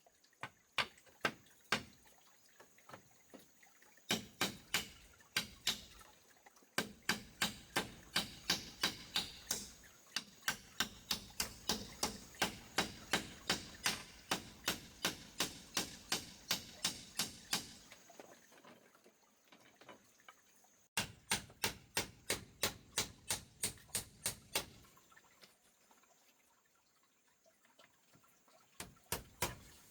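A rapid series of sharp knocks or taps, about three a second, coming in several runs broken by short pauses.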